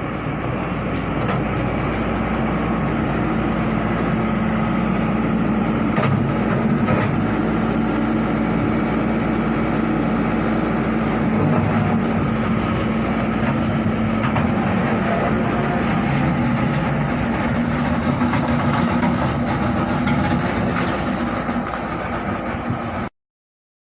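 Vehicle engine running steadily with a constant low hum; the sound cuts off abruptly near the end.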